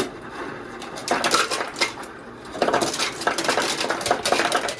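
Blue crab shells being cracked and broken apart close to the microphone: a dense run of crunches and snaps.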